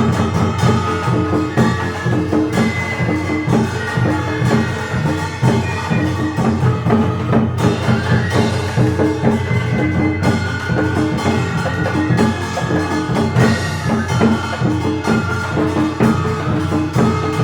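Korean traditional orchestra playing: drums and percussion strike a quick, steady beat under held melody notes.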